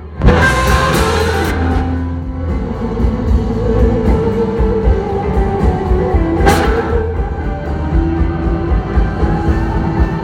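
Rock band playing, with guitar and drums. It comes in suddenly and loud with a cymbal crash, and there is another crash about six and a half seconds in.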